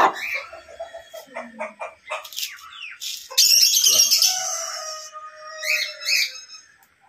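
Bird calls: short scattered chirps and squawks, with one longer, louder call about three and a half seconds in that lasts over a second.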